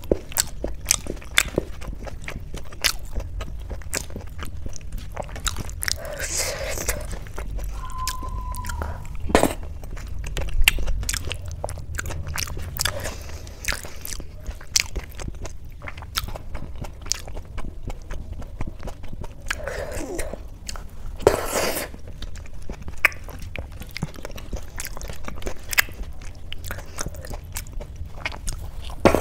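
Close-miked eating sounds of soft boiled rice mashed with potato and ghee, eaten by hand: chewing with frequent wet clicks and smacks of the mouth, and now and then a louder breath.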